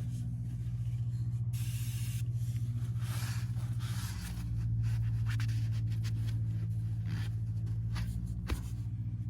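A cloth wiping and rubbing over the cast-iron engine block during dye-penetrant cleaning, heard as short hissy rubs. Behind it is a steady low mechanical hum that shifts slightly in pitch about four seconds in.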